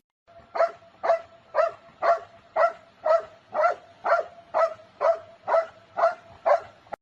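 A dog barking over and over at an even pace, about two barks a second, thirteen barks in all.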